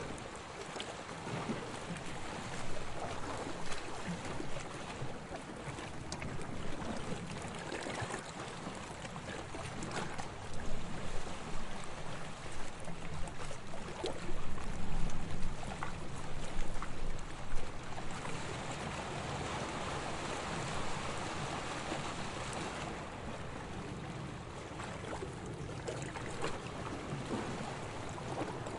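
Small waves lapping on a sandy shore, with a fizzing wash that swells and eases; the water is busier and louder through the middle of the stretch, then settles into a smoother, steadier wash.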